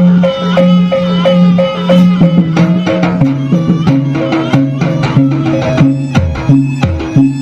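Live Javanese jaranan (kuda lumping) gamelan music: rapid hand-drum strokes and struck metal percussion over held low notes that step down in pitch about three seconds in.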